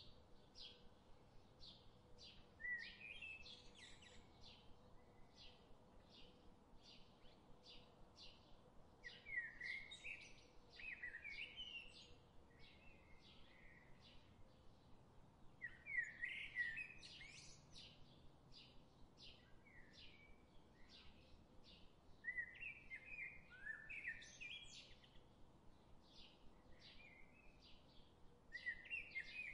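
Faint birdsong: one bird gives short high chirps steadily, about twice a second, and louder warbling song phrases from a bird come in about every six seconds.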